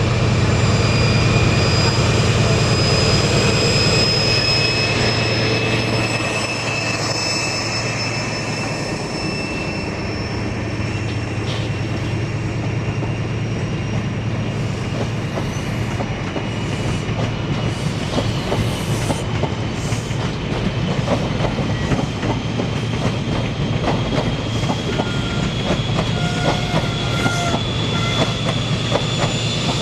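A train running on the rails with wheels clacking over rail joints, the clacking growing denser in the second half, and a whine that slowly rises in pitch.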